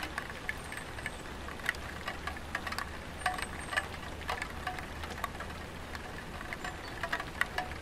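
Light rain falling on a tiled roof: irregular sharp drop ticks on the tiles, some with a short ringing tone, over a steady hiss and a low rumble.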